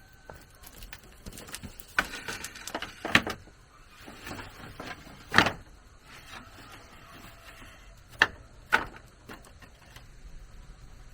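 Bamboo knocking and rustling as it is handled and worked, with five sharp knocks spread irregularly through and scraping between them.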